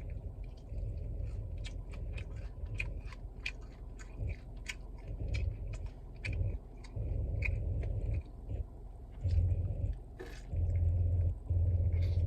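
Chewing chicken wings: many quick, irregular mouth clicks and smacks over a low hum that swells in stretches near the end.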